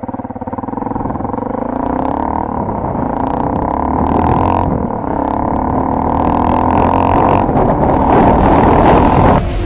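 Honda XR150 motorcycle's single-cylinder four-stroke engine running, its pitch rising over the first couple of seconds and then held steady, getting louder toward the end.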